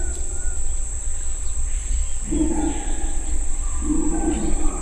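Red howler monkeys roaring in two deep bursts, about halfway through and near the end, over a steady high-pitched drone of forest insects.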